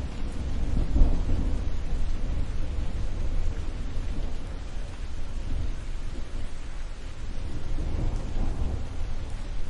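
Thunderstorm: low thunder rumbling over steady rain, swelling about a second in and again near the end.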